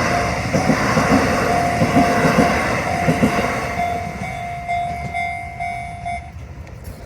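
Shin-Keisei Line train passing a level crossing and moving away, its wheels clacking over the rail joints and fading out after about three seconds. The crossing's warning bell rings steadily, about two strikes a second, and stops about six seconds in as the crossing clears.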